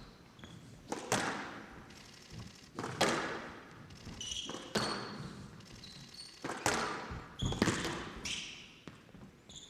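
Squash rally: the ball smacking off rackets and walls about every two seconds, each hit followed by a short echo, the loudest just past halfway. Short high squeaks of players' shoes on the court floor come between the shots.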